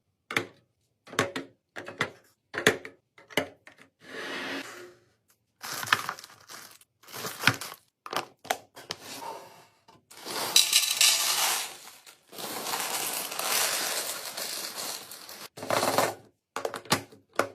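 Items being handled while restocking a fridge: a run of short clicks and knocks as containers and packages are picked up and set down, with two longer stretches of rustling after the middle.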